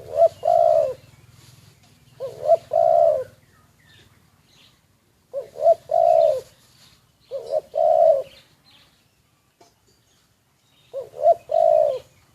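Spotted dove cooing: five phrases, each two short coos followed by a longer drawn-out coo, repeated every two to three seconds.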